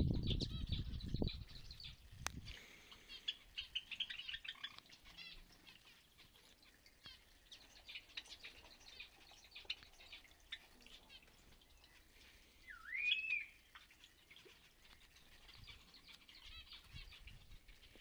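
Small aviary birds chirping and twittering with many quick, high chirps, and one louder rising whistled call about 13 seconds in. A low rumble fills the first second or so.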